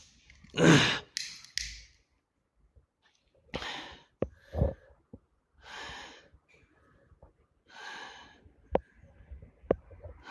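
A person's breath: several breathy puffs of air a second or two apart, the loudest near the start, with a few sharp clicks in between.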